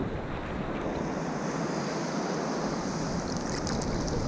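Waves of a rough Mediterranean sea washing steadily, with wind buffeting the microphone.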